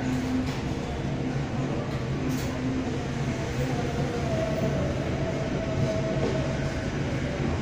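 Commuter train running steadily along the track, heard from its rear cab: a constant low engine hum and rail rumble with a few light clicks from the wheels. A faint thin whine comes in about four seconds in and fades out near the end.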